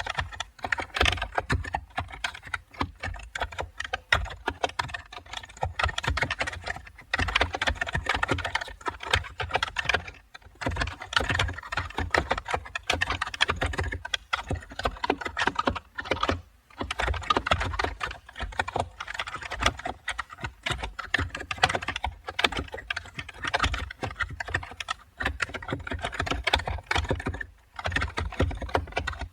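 Computer keyboard typing: a fast, continuous run of keystroke clicks, broken by a few brief pauses.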